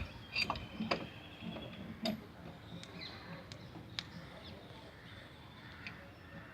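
Scattered light metallic clicks and knocks of hand tools and bolts on the car's clutch and gearbox parts, about half a dozen in the first few seconds and one more near the end.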